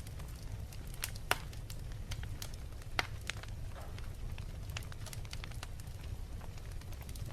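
Wood fire in a fireplace crackling, with sharp pops at irregular intervals over a steady low rumble; the loudest pops come about a second in and about three seconds in.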